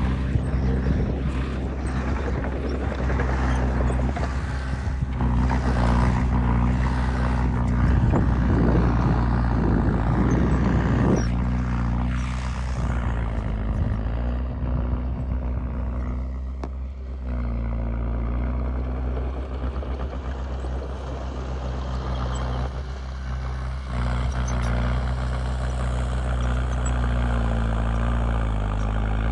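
Heavy diesel engine of earthmoving machinery running steadily, its pitch shifting up and down with the throttle as the machine works, with a rougher, noisier stretch partway through.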